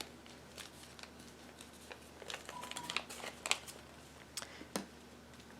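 Faint paper rustles and light taps from a folded paper boat being handled, a few scattered clicks at a time with quiet between them.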